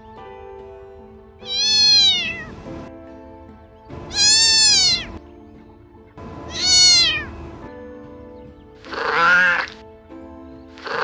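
A cat meowing five times, about two seconds apart, each call rising then falling in pitch; the last two are lower and shorter.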